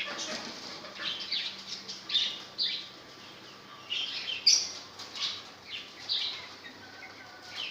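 Caged birds calling: short, sharp chirps that fall in pitch, about two a second, with a brief lull midway.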